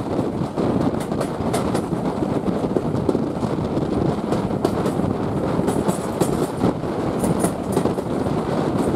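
Train running along the track: a steady rumble with the wheels clicking over rail joints, and a few brief high squeaks from the wheels in the second half.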